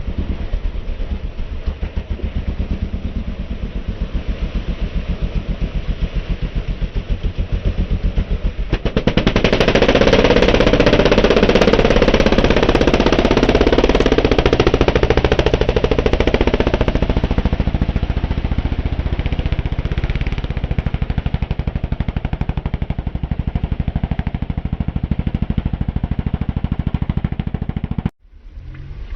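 A racing vehicle's engine running hard with a rapid, even firing rattle. It grows much louder about nine seconds in as it revs up under load, then eases back. The sound cuts off abruptly near the end.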